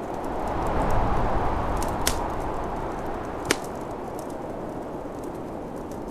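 Wood fire crackling in a fireplace with two sharp pops, about two seconds in and again a second and a half later, over the steady rush of snowstorm wind that swells about a second in and then eases.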